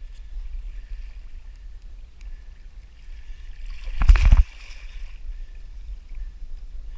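Sea water sloshing around a fishing kayak, over a steady low rumble. A short loud burst of noise comes about four seconds in.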